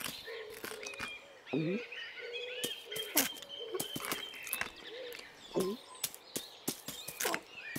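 Cartoon garden soundtrack: birds chirping over a low, repeated tone, with many short clicks and two falling swoops, about two seconds in and again near six seconds.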